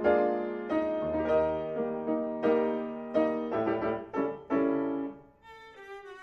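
Piano music: chords struck about twice a second, each note ringing and fading. The playing drops away near the end to a quiet, thin, high line.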